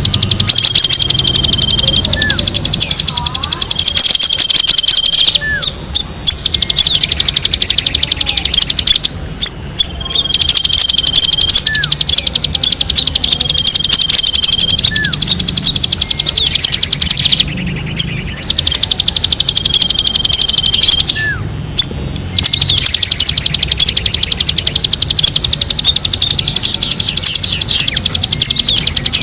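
Small songbird chirping rapidly and without letup, loud and high, broken by a few short pauses and now and then a held whistled note, with faint calls of other birds behind it. It is a bird-lure recording played to call wild birds and to set caged songbirds singing.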